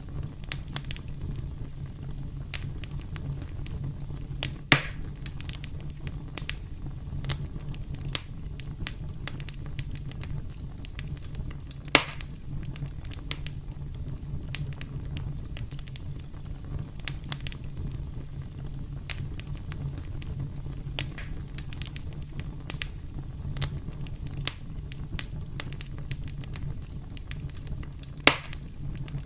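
Wood fire burning: a steady low rumble of flames with frequent small crackles, and three loud pops, about five seconds in, about twelve seconds in and near the end.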